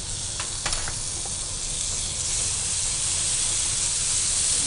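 Sliced onions and capsicum, with freshly added turmeric and ginger-garlic paste, sizzling in hot oil in a nonstick frying pan. It is a steady hiss that grows a little louder about two seconds in.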